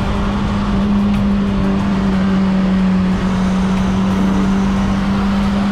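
Motorcycle engine running at a steady speed, a constant hum under loud wind rush.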